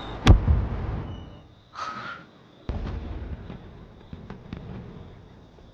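Fireworks bursting: a sharp bang with a low rumble, then a second burst a little over two seconds later followed by scattered crackles that fade away.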